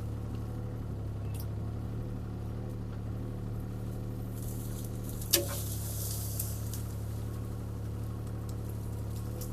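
CAT 303C CR mini excavator's diesel engine running steadily, with one sharp crack about five seconds in.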